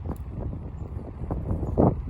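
Low rumble with irregular gusts of wind buffeting the microphone, the strongest gust near the end.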